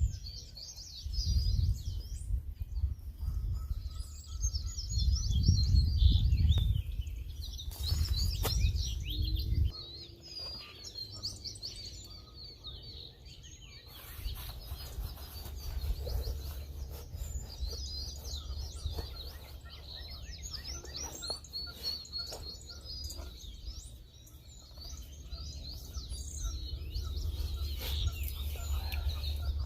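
Several wild birds chirping and singing, with many overlapping short calls and trills. A low rumble runs underneath, heaviest in the first ten seconds and steadier again through the second half.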